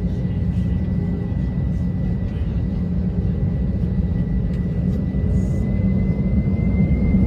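Airliner engines heard inside the cabin: a steady low rumble with a thin high whine that rises slightly in pitch as the sound grows a little louder toward the end.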